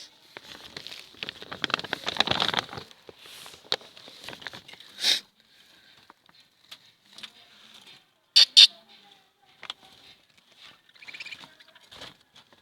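Pet lovebirds chattering, with shrill chirps about five seconds in and a louder pair a little after eight. Scratchy rustling and pattering fill the first few seconds.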